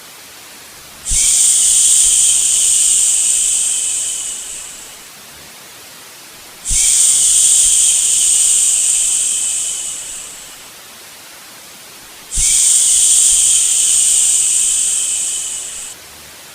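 Long shushing "shhh" sounds, three of them, each starting sharply and trailing off over a few seconds, over a steady quieter hiss of white noise.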